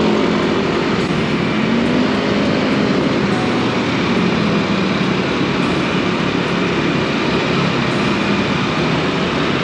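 Steady riding noise from a Honda Click 160 scooter moving through city traffic: its single-cylinder engine running under an even rush of road and air noise.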